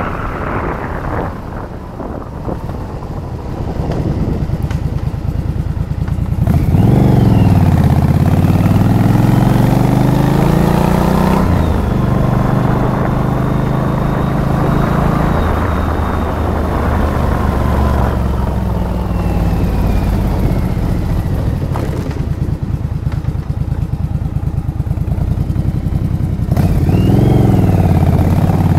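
Yamaha Virago XV1100's air-cooled V-twin on the move: the engine pulls up through the revs for several seconds, drops at a gear change, holds steady, then winds down slowly as the throttle is eased off. Near the end there is a short rise and fall in revs.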